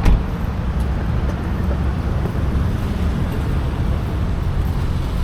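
Motorcycle engine running steadily with a low rumble, and a single sharp knock right at the start.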